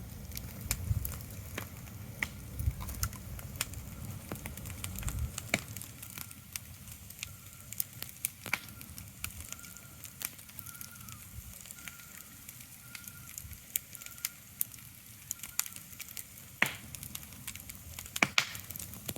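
Irregular crackling: scattered sharp clicks and pops over a soft hiss, with a low rumble that fades out about five seconds in. A faint, repeated high tone comes and goes through the middle.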